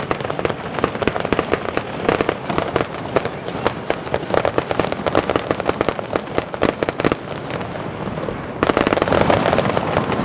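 Aerial fireworks going off in a rapid, continuous barrage of bangs and crackles. The barrage grows denser and louder a little over eight seconds in.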